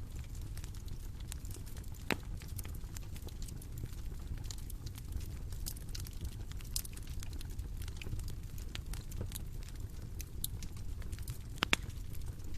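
Bonfire crackling: a steady low rumble of burning with a constant scatter of small snaps and pops, and two louder pops, about two seconds in and near the end.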